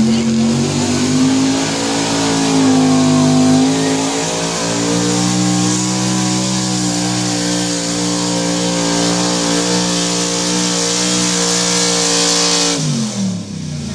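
Pulling tractor's engine running flat out under load down the pull track, a steady high-revving note. Near the end the revs drop sharply as the throttle comes off.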